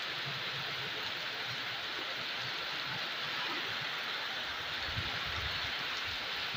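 Heavy tropical rain pouring onto a paved street, walls and plants as a steady, even hiss, with a brief low rumble about five seconds in.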